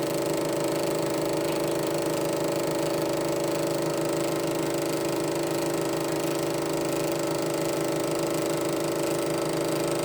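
Elmo Super 8 sound projector running: a steady mechanical hum and whirr from its motor and film transport, unchanging throughout.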